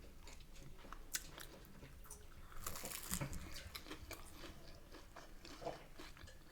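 Faint mouth sounds of someone chewing and biting fried fish and chips, with scattered crisp crunches bunched about three seconds in.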